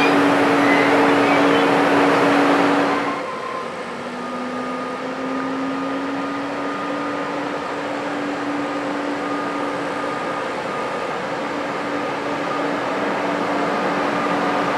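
Electric-hauled freight train of car-carrier wagons passing with loud rolling noise and a steady hum. It cuts off abruptly about three seconds in, followed by an ÖBB Taurus electric locomotive approaching with a car-carrier freight train, its hum and steady tones growing slowly louder.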